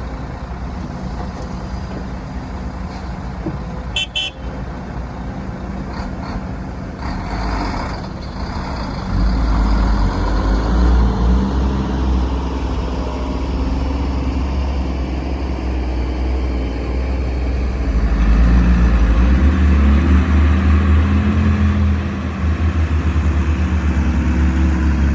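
Heavy diesel earthmoving machinery running, its engine working harder and louder from about nine seconds in, with a second heavy stretch near the end. A short high-pitched toot about four seconds in.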